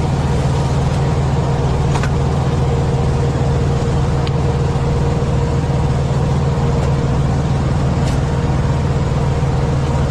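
Semi truck's diesel engine running steadily with a low, even drone, with a few light clicks over it.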